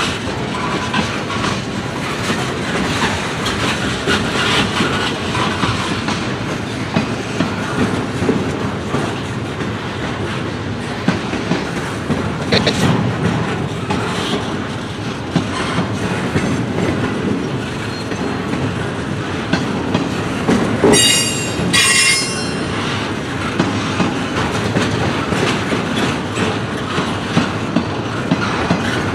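Freight train cars rolling past, a steady rumble of wheels with clicks over the rail joints. Two short, high wheel squeals about three-quarters of the way through.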